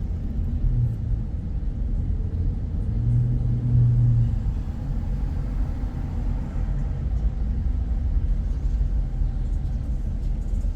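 A car being driven, with a steady low rumble of road and engine noise and a deeper engine hum that swells briefly about three to four seconds in.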